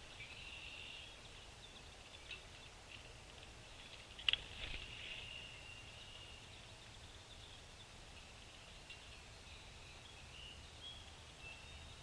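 Small birds chirping faintly in short, high calls, with one sharp click about four seconds in, over a low steady background rumble.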